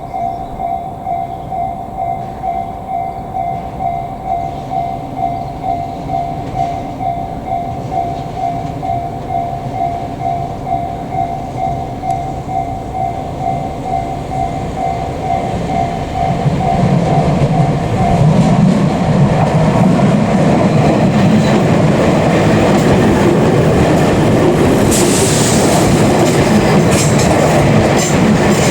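A ten-car Tobu Tojo Line express electric train approaches and passes close by, rumbling loudly from about 17 seconds in, with wheel clatter over rail joints near the end. Before the train arrives, a warning bell rings in a steady repeating two-note pattern and stops about 19 seconds in.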